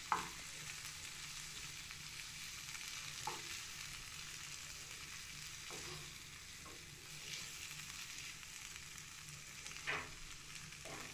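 Boiled red kidney beans and onion sizzling lightly in oil in a frying pan, a steady faint hiss. A wooden spoon stirring them gives several brief scrapes and knocks against the pan, the clearest just before the end.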